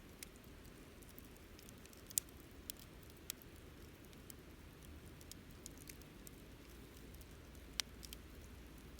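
Wood campfire crackling softly: sparse sharp pops and snaps, the loudest about two seconds in and again near the end, over a low steady rumble.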